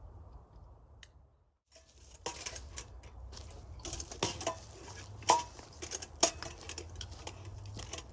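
Irregular clicks and light clinks after a brief dropout, one of them ringing briefly, over a steady low hum.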